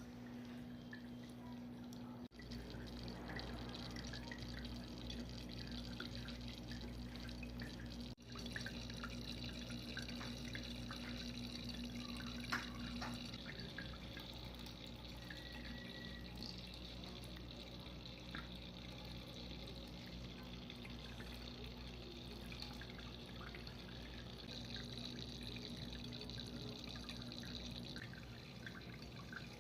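Anti-gravity humidifier with water drops falling one after another into its water basin, a steady patter of small drips over a low steady hum.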